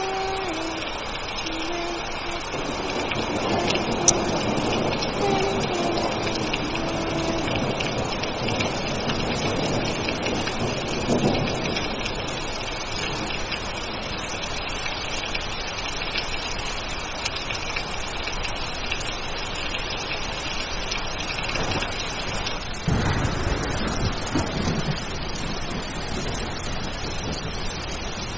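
Steady heavy rain of a thunderstorm, with thunder rumbling twice: once about ten seconds in and more heavily about 23 seconds in. A faint wavering tune fades out over the first few seconds.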